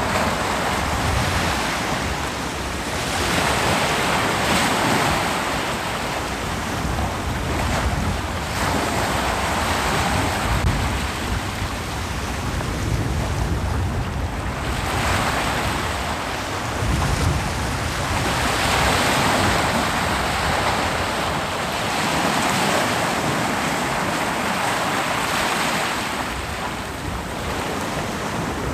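Ocean waves breaking on a beach, the surf swelling and easing in slow surges every few seconds, with a low rumble of wind on the microphone.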